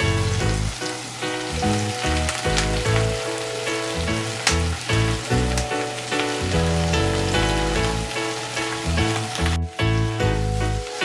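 Food sizzling as it fries in a pan, with background music playing over it. The sound drops out briefly near the end.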